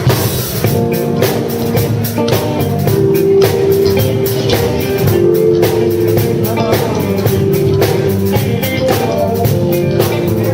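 A band playing a blues-rock groove, with electric guitar, keyboards and a drum kit keeping a steady beat under long held notes.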